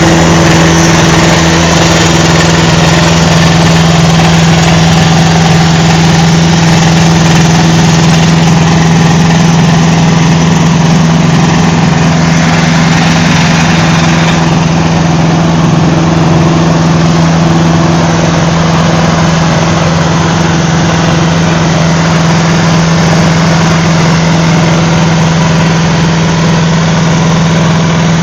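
Microlight's Rotax 512 engine and new propeller running at a steady speed, a loud constant low tone with no change in revs.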